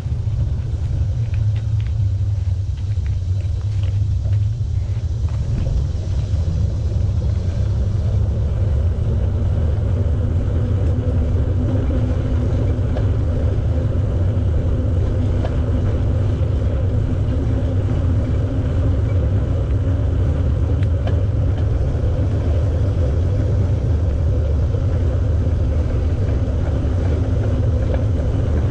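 Wind buffeting the microphone of a camera carried on a moving bicycle: a steady low rumble, with a faint steady hum joining about a third of the way through.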